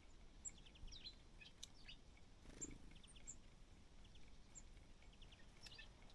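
Small birds chirping faintly, with short high chirps and twitters at irregular intervals.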